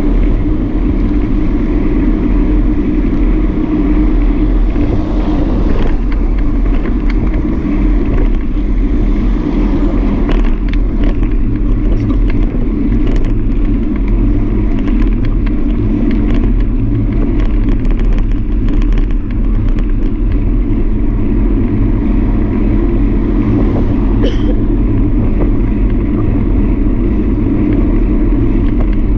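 Steady wind and road noise from a bike in motion, with scattered small clicks and rattles.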